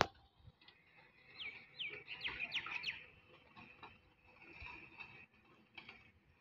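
A bird calling: a run of about six quick falling whistles starting about a second and a half in, over faint street background. A sharp click at the very start.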